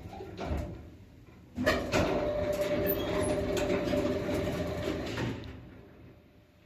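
Elevator machinery running: a sharp clack about a second and a half in, then a steady hum with a clear tone for a few seconds, fading away near the end.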